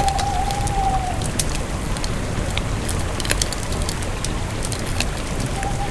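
Campfire burning: sharp crackles and pops over a steady hiss, with a thin whistling tone during the first second and again near the end.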